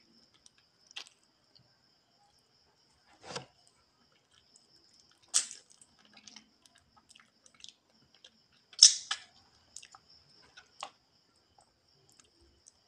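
Close mouth sounds of a person eating adobo chicken feet by hand: scattered short smacks and clicks of chewing and sucking at the bones, with two louder ones in the middle stretch.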